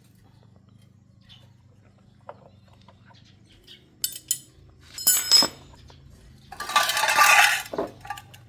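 Metal clinking and clattering: two sharp clinks, then a louder clatter, then a longer rattling clatter lasting about a second.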